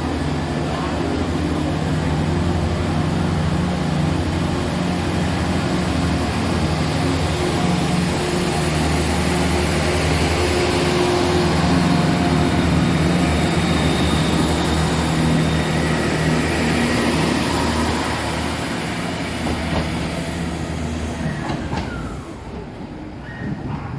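Two British Rail Class 50 diesel locomotives with English Electric 16-cylinder engines, running with a deep, steady drone. The sound grows louder toward the middle, then fades away near the end as the train moves off.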